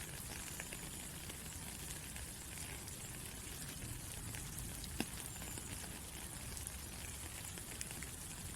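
Steady rain falling: a continuous hiss with scattered drop ticks and one sharper drip about five seconds in.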